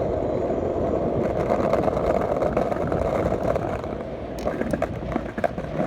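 Skateboard wheels rolling over a cobblestone sidewalk, a continuous rattling rumble. About four and a half seconds in it eases and sharp clacks and knocks come through.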